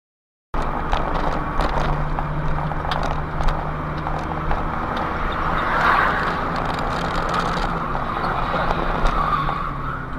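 Car engine and tyre noise while driving, cutting in abruptly about half a second in and running steadily, with a swell of higher tyre noise around the middle.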